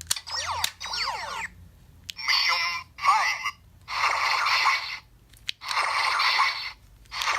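Bandai DX Rocket Dagger (Rocket Booster) toy's electronic sound effects through its small built-in speaker, fired by trigger pulls in its laser (Shooting Dagger) mode: two sweeping zaps, then two short blasts, then three longer blasts of about a second each.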